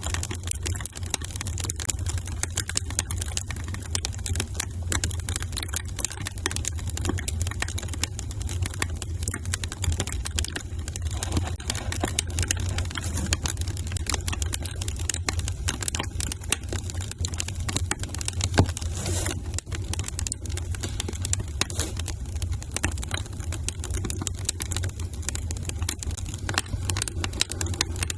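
Wood fire crackling in a fireplace: a constant, dense patter of small pops and snaps over a steady low rumble.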